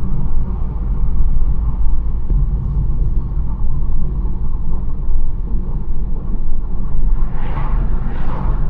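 BMW 1 Series driving along a country road: a steady low rumble of road and engine noise, with two brief whooshes near the end.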